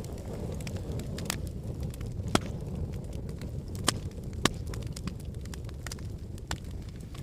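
Wood fire in a fireplace crackling: a steady low rumble of flames with sharp pops and snaps at irregular intervals, four of them louder than the rest.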